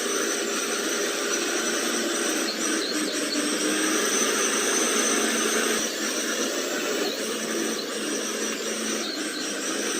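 Small electric motors and gearboxes of radio-controlled trucks whirring steadily, a little louder from about four to six seconds in.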